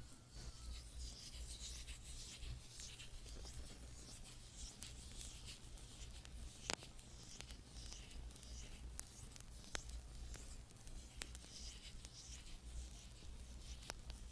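ASMR hand movement sounds close to the microphone: soft, shifting swishes of hands moving and rubbing, with a few faint sharp clicks.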